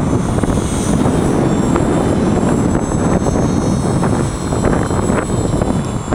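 Gaui Hurricane 255 electric RC helicopter in flight: a thin, steady high whine from its motor and rotors over heavy wind buffeting the microphone.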